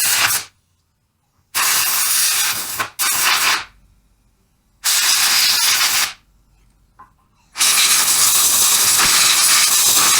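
Compressed air hissing in repeated bursts, of the kind used to blow out an alternator during a bearing job: the tail of one burst at the start, then four more of roughly one to two and a half seconds each, each starting and stopping abruptly, the last and longest running up to the end.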